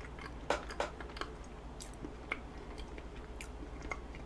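Close-up mouth sounds of someone chewing a bite of mango cheesecake, with a scattering of short, sharp clicks.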